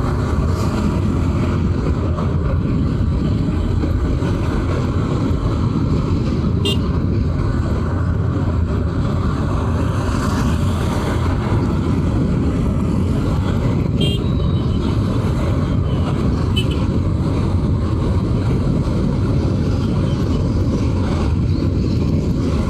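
Bajaj Pulsar 200 NS motorcycle on the move: its single-cylinder engine runs steadily under heavy wind rush on the rider's microphone.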